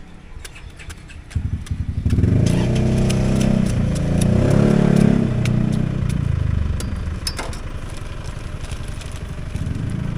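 A motorbike engine running close by, coming in over a second in, loudest for a few seconds in the middle with its pitch wavering, then fading away. Sharp clicks sound throughout.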